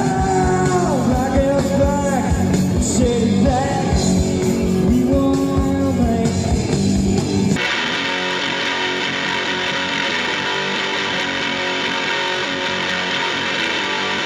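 Distorted grunge electric guitar, with a sung voice over it for the first seven and a half seconds or so. Then it switches abruptly to a denser distorted guitar sound alone, the guitar going through a simulated Randall amp (an impulse response).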